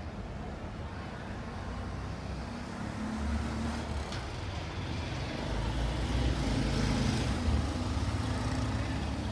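Street traffic: motor vehicles passing, their engine noise building to its loudest about six to seven seconds in over a steady hiss.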